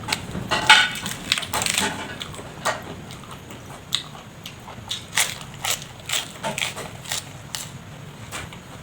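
Close-miked eating: a person chewing and biting food, with irregular crisp crunches every half second or so.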